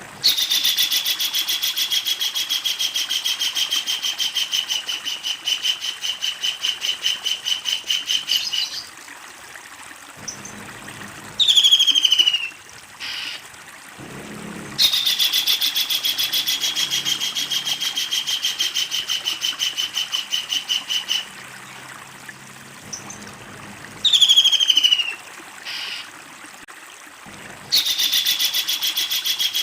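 A tengkek udang kingfisher giving its long, fast rattling cackle, three long trills that sag slightly in pitch, with a short, loud, downward-sliding call in each gap. A faint low hum sits under the quieter stretches between the trills.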